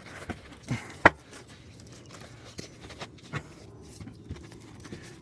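Scattered light rustles and taps as a sheet of ice and water shield, its release paper still on, is worked in underneath roof shingles. One sharper tap comes about a second in.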